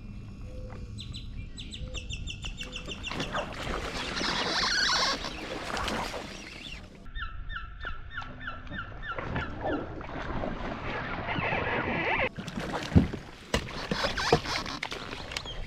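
A bird calling in two quick runs of repeated, evenly spaced notes, between stretches of rustling noise.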